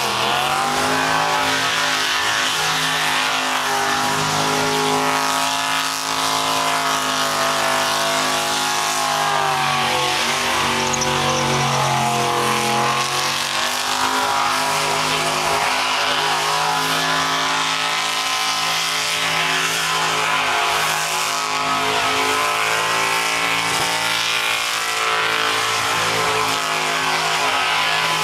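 Car engine held at high revs during a burnout, with the hiss and squeal of spinning tyres. The revs sag and climb back about ten to thirteen seconds in, then hold steady again.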